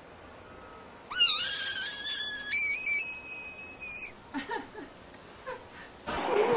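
A frog's distress scream at a cat: one long, high-pitched cry lasting about three seconds, sweeping up at the start and then climbing in pitch in a few steps. A few faint short calls follow, and near the end a cut brings in a louder, rougher animal sound.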